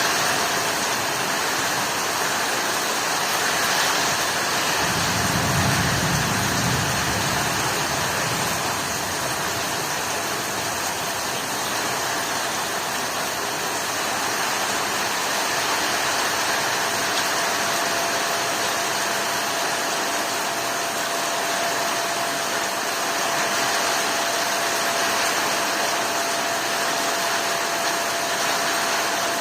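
Heavy rain falling in a steady, dense hiss. About five seconds in, a low rumble swells for a few seconds and fades, and a faint steady tone runs under the rain.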